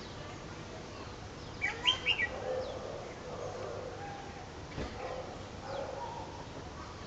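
Wild bird calls: a quick burst of loud, sharp chirps about two seconds in, followed by softer, lower warbling notes, with a single click near the middle.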